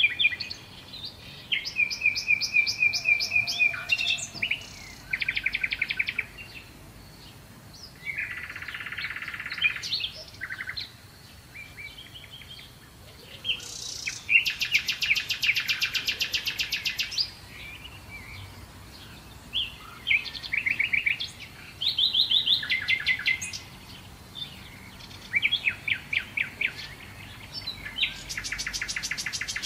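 Birds singing: a run of quick high trills and chirped phrases, each lasting a second or two, with short pauses between.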